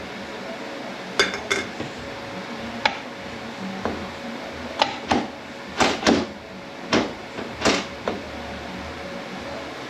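Metal parts of a 10R80 automatic transmission handled during teardown: about ten separate clinks and knocks at uneven spacing, the loudest bunched in the second half.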